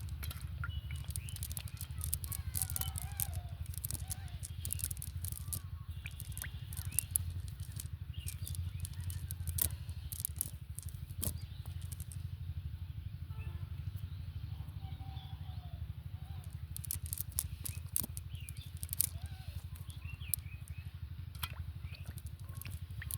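Scattered sharp clicks and crackles over a steady low rumble, with faint voices in the background.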